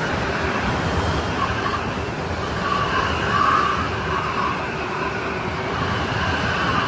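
Strong snowstorm wind blowing steadily: a rushing noise with a wavering whistle that swells into a louder gust about halfway through.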